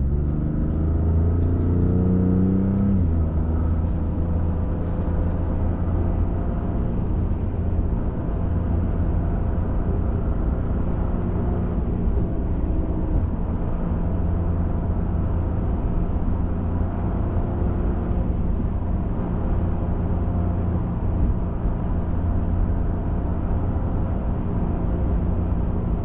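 Pickup truck driving: the engine's pitch rises over the first three seconds as it accelerates, then it settles into steady cruising with a constant road rumble.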